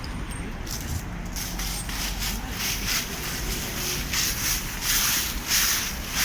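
Footsteps rustling and crunching through dry fallen leaves at a walking pace, about two steps a second, growing louder after about four seconds.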